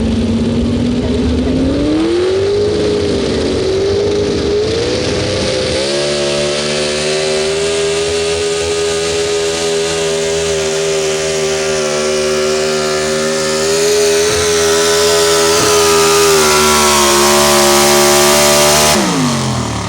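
Super stock 4x4 pulling truck's engine at full throttle during a pull: revs climb over the first few seconds, then hold high and steady for about thirteen seconds before falling away sharply near the end.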